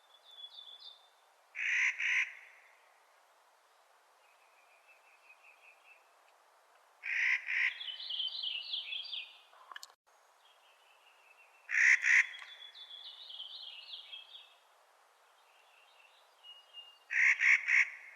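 Clark's nutcracker giving harsh, grating calls in four bursts about five seconds apart, each burst a few rapid strokes. Quieter, higher runs of quick chattering notes fill the gaps between them.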